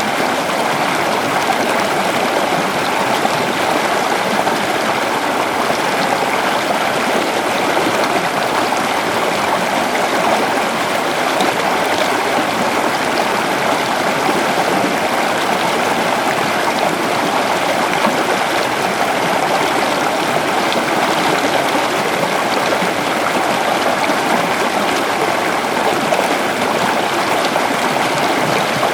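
Shallow river flowing over stones, a steady rushing and gurgling of water.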